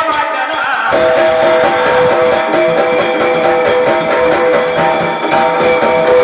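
Indian folk music playing: jingling percussion keeps a quick beat throughout. About a second in, a steady two-note drone comes in and holds.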